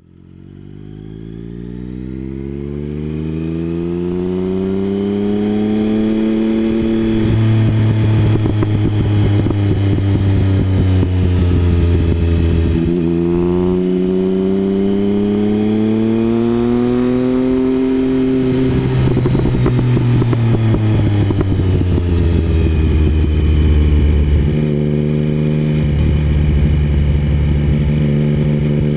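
Triumph Speed Triple 1050's inline three-cylinder engine running through an aftermarket Mivv exhaust, its revs rising and falling again and again. The sound fades in over the first few seconds.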